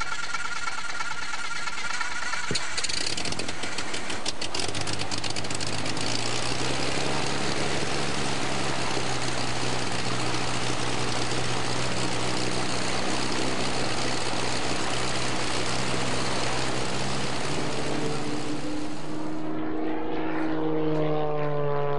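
Single piston aircraft engine being started: the starter cranks with rapid clicking, the engine catches about four seconds in and settles into a steady idle. Near the end the high hiss drops away and some tones glide downward.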